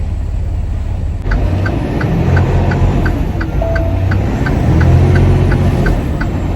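Semi truck's diesel engine running under load in the cab, rising and falling as it pulls away, with a steady ticking about three times a second starting about a second in, like the turn-signal indicator.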